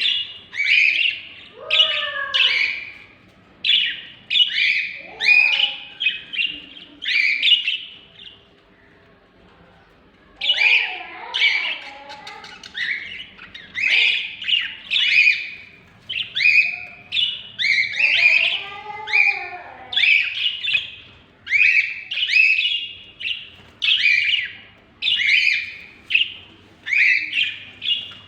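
Pet parrots calling over and over in short, loud calls, about one or two a second, with a pause of about two seconds partway through and fainter, lower gliding calls in between.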